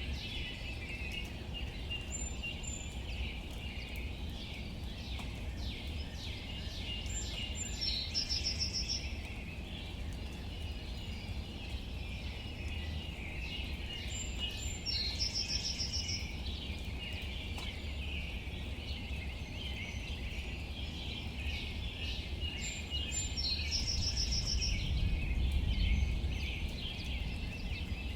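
Rain pattering on leaves, a thick stream of small drip ticks. Over it a bird repeats a short, high trilled phrase three times, about every seven to nine seconds, and a steady low rumble runs underneath.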